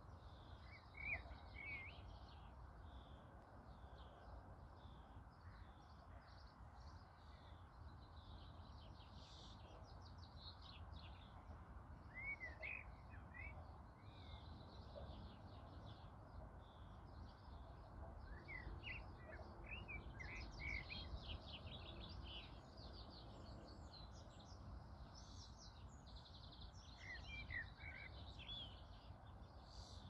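Faint birdsong: quick high twittering and trills, with short groups of lower chirping calls a few times, over a steady low rumble.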